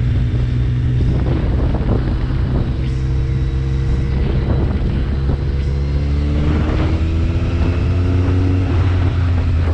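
BMW K1300R inline-four engine running under way, its pitch rising gently about six seconds in as the throttle opens, with wind buffeting the microphone.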